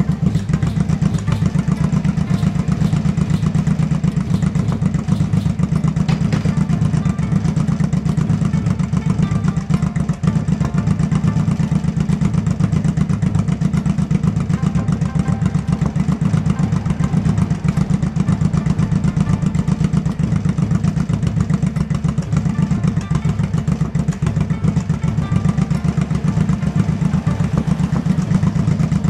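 A motorcycle engine idling steadily, with an even, rapid beat of firing pulses and no change in speed.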